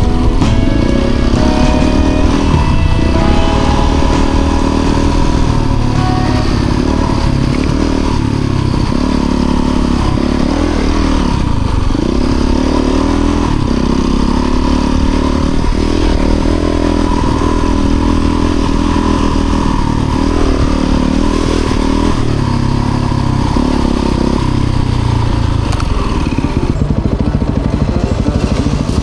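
Motorcycle engine running, its note rising and falling with the throttle.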